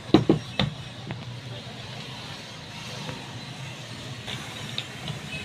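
Three sharp knocks within the first second, then steady low background noise like distant traffic.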